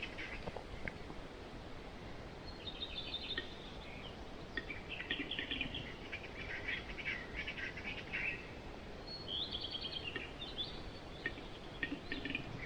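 Birds calling in bursts of rapid, ticking chirps over a steady low background hiss.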